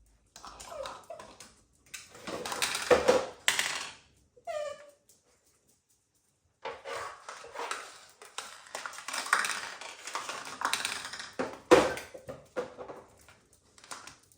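Hard objects clattering, knocking and scraping irregularly as they are moved about, with a second and a half of silence in the middle.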